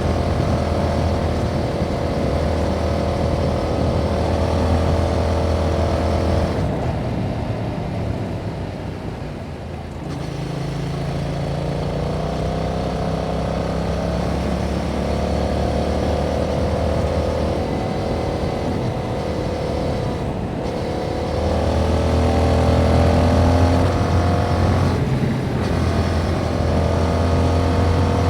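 A 2021 Yamaha MT-07's 689 cc parallel-twin engine, with its stock exhaust, running under load. About seven seconds in the revs and level drop off, then pick up again from lower revs about ten seconds in. It gets louder after about twenty-one seconds, with short breaks near twenty and twenty-five seconds.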